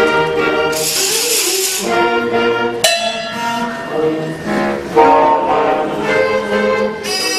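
School concert band playing a piece, with brass and percussion heard.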